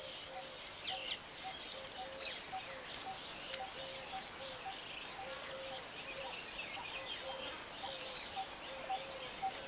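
Weaverbirds chirping and twittering in many short, scattered calls, with a soft low note repeating about twice a second underneath.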